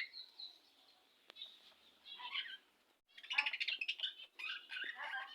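Budgerigars chirping and chattering in short bursts of quick, high warbles, busiest in the second half.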